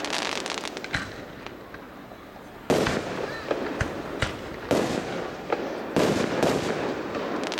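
Aerial fireworks shells bursting: three loud bangs about a second and a half to two seconds apart, each trailing off in crackling and echo, with smaller pops in between.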